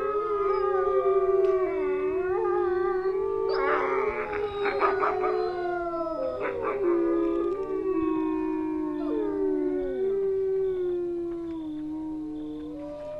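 A pack of wolves howling in chorus: several long howls overlap at different pitches, sliding and slowly falling. A choppy burst of yipping comes in about four seconds in.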